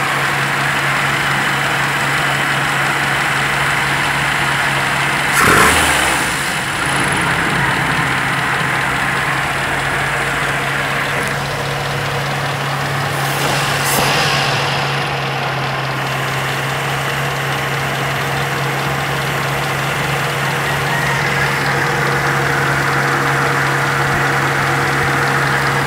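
Toyota 4A-F carbureted 16-valve inline-four engine idling steadily, with two brief louder rushes about five and fourteen seconds in.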